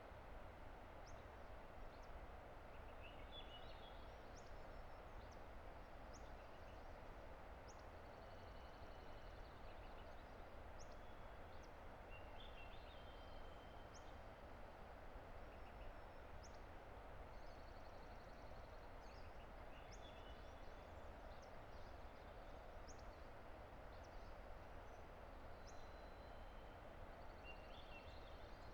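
A distant river rushing steadily, with birds calling faintly over it: short high chirps and whistled notes and a few brief trills scattered throughout.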